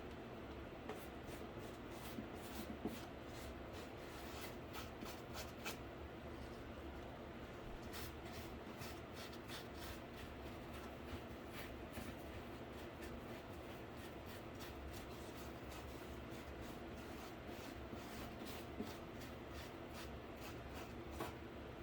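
Paintbrush stroking over a cardboard PC case: a run of soft, scratchy brushing clicks over a steady low hum.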